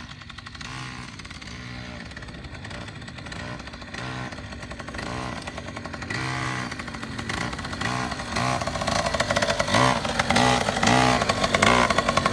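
Dirt bike engine revving up and easing off over and over, growing louder over the last few seconds.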